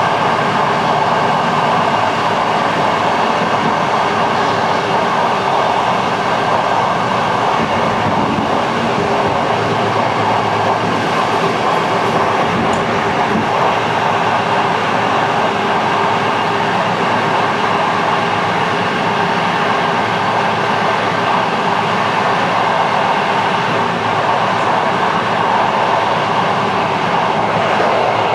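Passenger train running steadily, an even rolling noise with a few faint steady tones and no clear rail-joint clicks.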